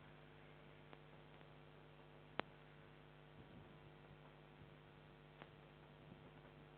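Near silence: a steady low electrical hum from the recording system, with a few faint clicks and one sharper tick about two and a half seconds in.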